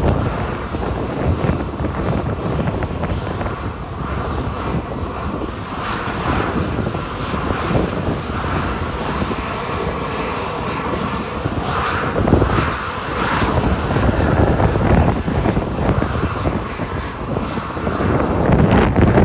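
Jet airliner engines running during a departure, heard under heavy wind buffeting on the microphone.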